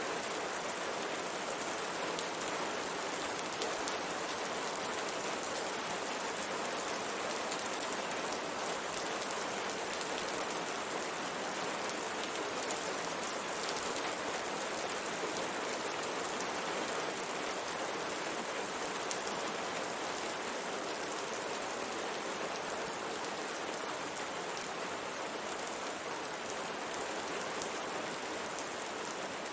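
Steady rain pattering on a window pane, an even hiss of rain scattered with many small drop ticks.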